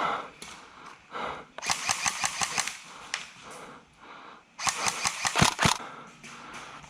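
Airsoft rifle fire: two rapid strings of shots, each about a second long, the first about a second and a half in and the second near the five-second mark, with a few single clicks between them.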